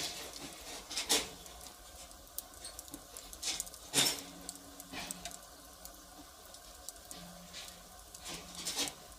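Firewood fire crackling, with small irregular ticks and a few sharper pops, the loudest about four seconds in.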